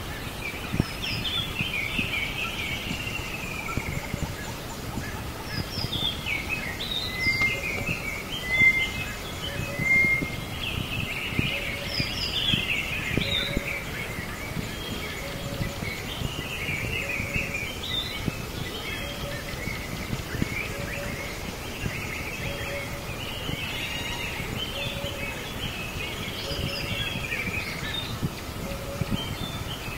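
Birds chirping and singing, many short calls overlapping continuously, over a steady outdoor background hiss, with a short lower note repeating about once a second.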